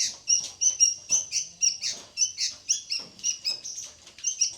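A bird chirping continuously in short, high notes, about four a second.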